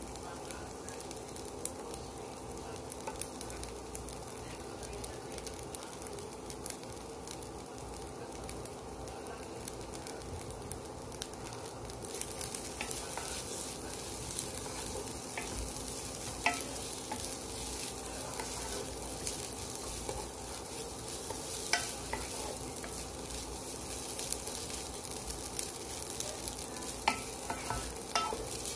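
Fried rice sizzling in a coated pot as a wooden spatula stirs and scrapes through it. The crackling hiss gets louder about twelve seconds in, with occasional sharp taps over a faint steady hum.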